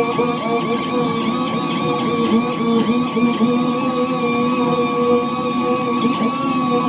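Dual-action sander with a 600-grit disc on a cushion pad, sanding the clear coat of a car bonnet to cut orange peel, running together with a dust extractor. A steady machine whine whose lower pitch wavers slightly as the sander is worked over the panel.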